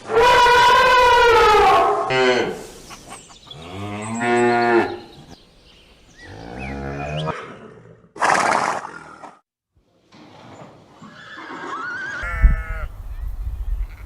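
Cattle mooing: a string of separate calls, some long and low with a falling pitch, one higher and drawn out at the start, and a short breathy burst near the middle.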